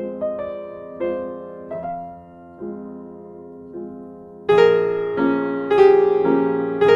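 Piano music: soft chords struck one after another, becoming clearly louder and fuller about four and a half seconds in.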